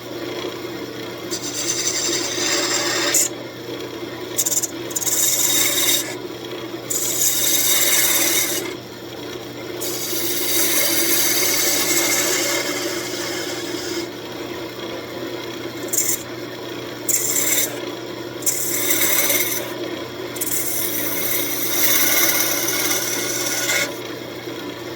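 Wood lathe spinning a walnut blank, its motor humming steadily while a turning tool cuts the wood in repeated hissing passes that start and stop every second or two.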